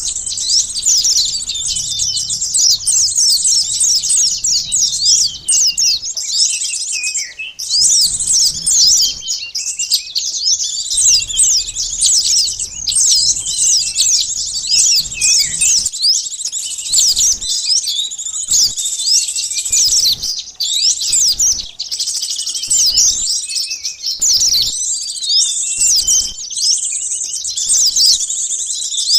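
Sunbirds calling: a dense, unbroken chatter of quick, high, overlapping chirps and twittering sweeps. This is a lure call, played to draw small wild birds in for catching.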